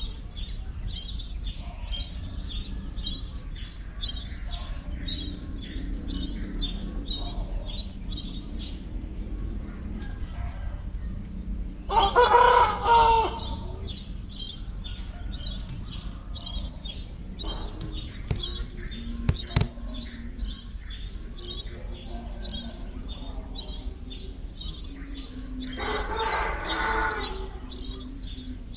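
Two loud, drawn-out bird calls about fourteen seconds apart, each lasting a second or so, over a steady fast chirping in the background, with one sharp click in between.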